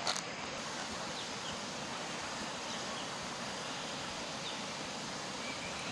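Steady rushing of a river's flowing water, with a single click just after the start.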